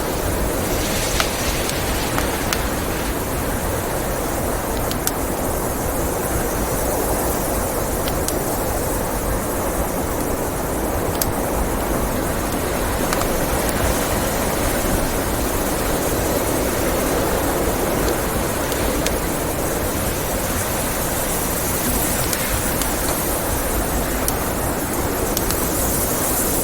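Steady blizzard wind, with the occasional sharp pop and crackle of a wood fire.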